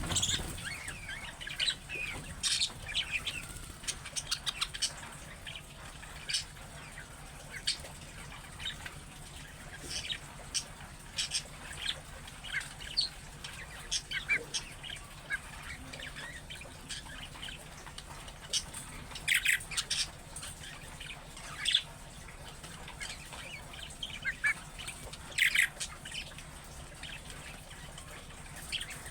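Budgerigars chirping in short, sharp, irregular calls, with denser bursts of chatter here and there. A faint steady low hum runs underneath.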